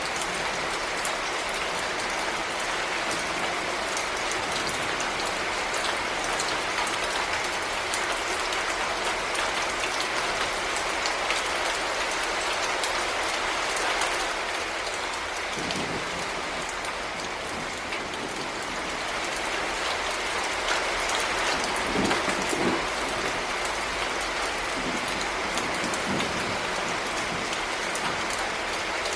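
Heavy rain falling steadily, a dense hiss of many drops pattering on surfaces. Low rumbles rise under it about halfway through and again a few seconds later.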